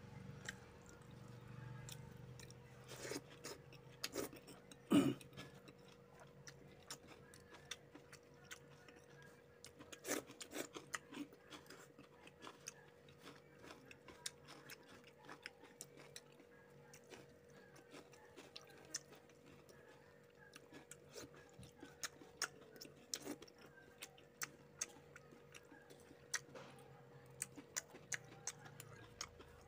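A person chewing and smacking while eating rice and curry by hand off a banana leaf: many short, sharp wet mouth clicks, with a louder one about five seconds in.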